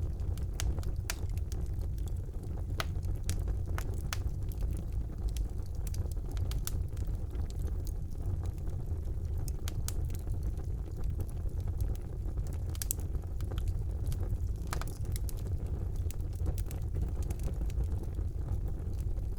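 Wood fire burning in a fireplace: a steady low rumble of the flames with irregular sharp crackles and pops, several a second at times.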